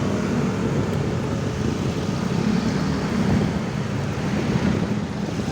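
Steady road traffic noise, with a low engine hum that swells and fades and some wind on the microphone while riding.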